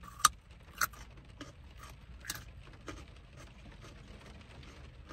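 Close-up eating sounds: a few short, sharp crunches and clicks, the loudest about a quarter second in and others near one and two seconds, with smaller ticks between.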